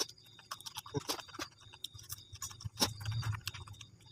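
Close-miked chewing: a run of small, irregular wet mouth clicks and smacks from someone eating noodles and raw vegetables.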